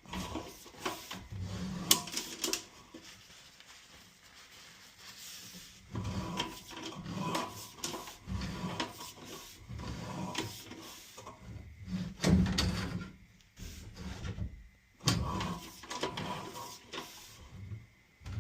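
Irregular knocks, clicks and short rubbing clunks from handling the sewer camera's push cable as it is moved through the drain pipe.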